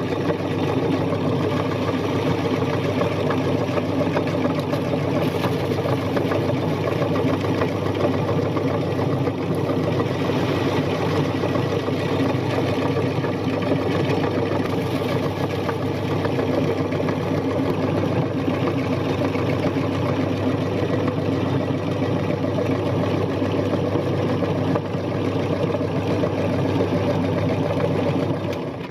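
Electric meat grinder motor running steadily under load, switched off near the end.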